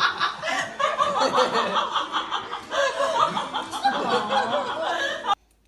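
Laughter, with several voices overlapping, that stops abruptly near the end.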